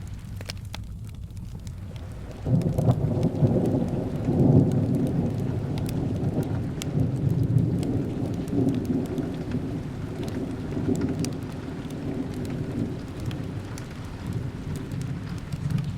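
Steady rain with scattered sharp crackles from a fireplace. About two and a half seconds in, a loud low rumble of thunder breaks in, peaks a couple of seconds later and slowly dies away.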